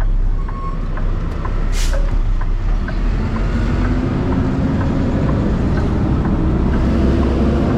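Car driving, heard from inside: steady low road and engine rumble, with the engine note rising slowly from about three seconds in as it picks up speed. A short sharp click about two seconds in.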